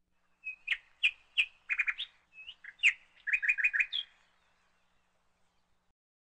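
A bird chirping: a string of short, high chirps broken by a few quick trilled runs, stopping about four seconds in.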